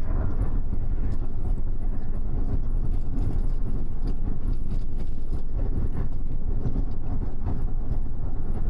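Cabin noise of a double-decker bus on the move, heard from the upper deck: a steady low engine hum and road rumble with no change in speed.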